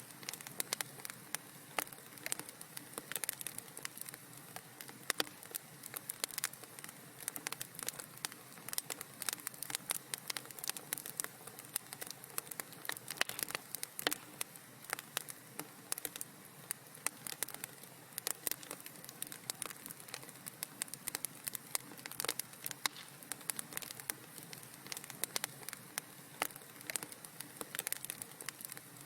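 Wood fire in a fireplace crackling steadily, with many quick sharp pops and snaps over a soft hiss.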